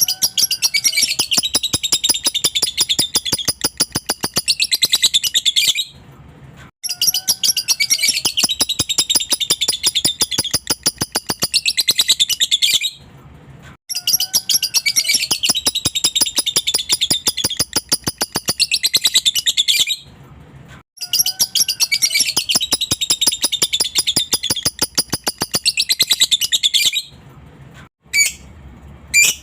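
Lovebird 'ngekek': long runs of rapid, high chattering notes. There are four runs of about six seconds each with short breaks between them, then a few short chirps near the end.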